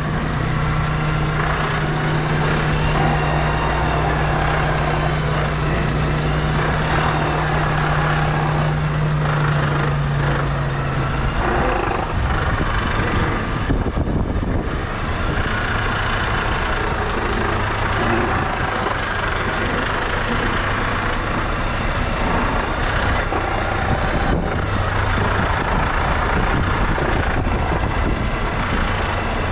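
Mercedes-Benz Actros truck's diesel engine running as the truck moves along, with a steady low drone that gives way about eleven seconds in to a rougher, unsteady engine and rolling noise.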